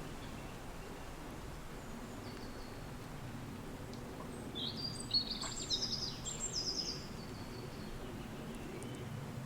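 Steady low wind noise, with a songbird breaking in about halfway through with a two-to-three-second burst of quick, high trilled notes.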